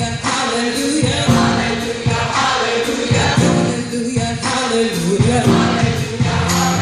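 Gospel choir singing with band accompaniment and a steady beat, with tambourine.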